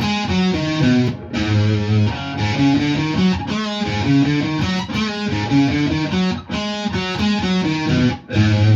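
Electric guitar playing a picked rock riff in A on the low strings: a run of single notes moving between the D, A and low E strings, with a low note coming back every couple of seconds.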